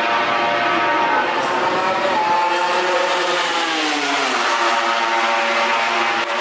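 MotoGP racing motorcycle engines running at high revs, several engine notes held steady while one falls in pitch about halfway through.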